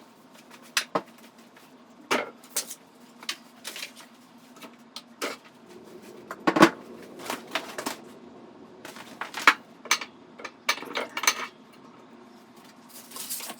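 Irregular clinks and knocks of steel parts being handled and set down on a workbench, the kind of noise made while unbolting and taking apart an old belt grinder platen assembly. The loudest knock comes a little past the middle, with a quicker cluster of knocks near the end.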